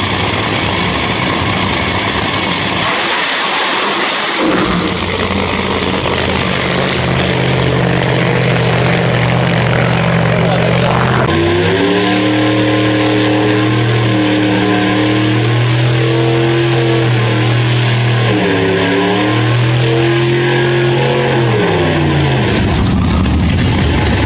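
Drag racing car engine running loud. Its note steps up about halfway through, then dips and rises a few times and falls away near the end.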